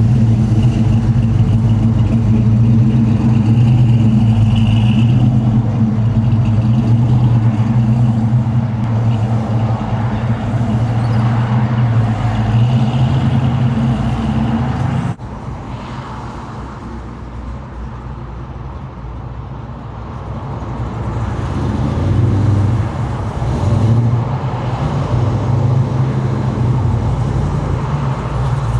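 Classic car engine running with a steady low rumble. About halfway through, the sound cuts abruptly to a quieter engine sound that swells again near the end.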